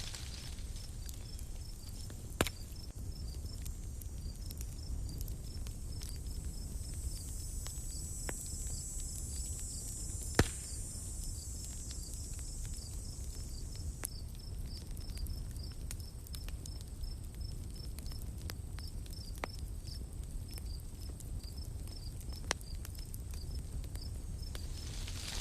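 Forest ambience with a campfire: an insect chirping in a steady, even rhythm high in pitch over a low steady rumble, with a few sharp fire pops, the loudest about ten seconds in.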